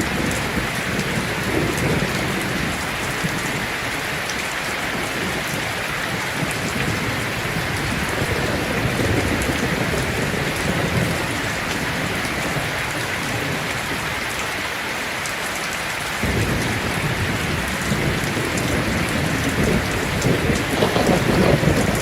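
Heavy rain falling steadily on a tin roof, with low rolling thunder underneath; the rumble grows about three-quarters of the way through and is loudest near the end.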